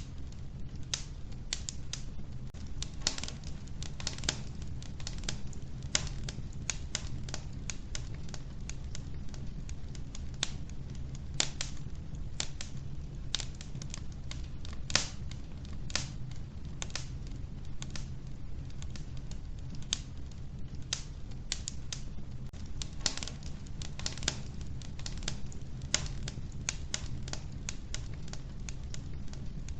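Wood fire crackling in a wood-burning stove: irregular sharp pops and snaps over a steady low rumble of the flames.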